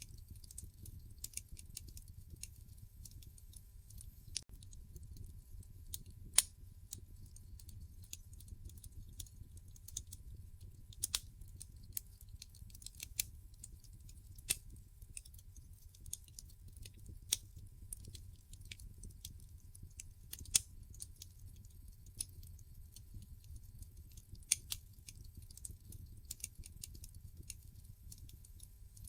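Wood fire crackling in a fireplace: irregular sharp pops and snaps, a few much louder than the rest, over a low steady rumble of the burning logs.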